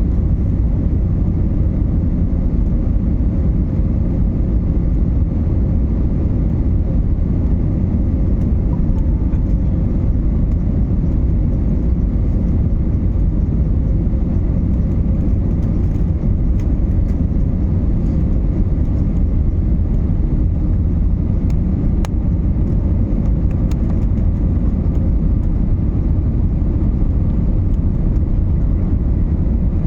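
Airbus A320neo passenger cabin noise: a steady, loud low rumble from the engines and the air around the airliner, with a faint steady hum over it.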